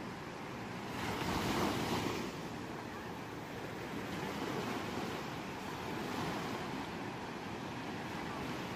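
Ocean waves breaking on a shore. One louder wave crashes about a second in, followed by softer surf washing in and out.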